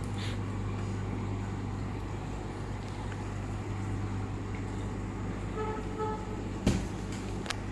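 A steady low hum, with two short beeps near six seconds in and a sharp knock shortly after.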